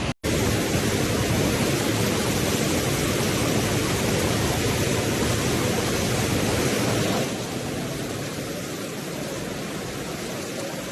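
Floodwater rushing in a torrent: a loud, steady noise with no pitch that starts after a brief dropout and turns a little quieter about seven seconds in.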